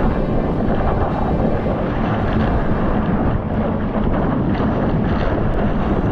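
Wind buffeting the microphone over ocean surf, a loud, steady rushing noise with water churning underneath.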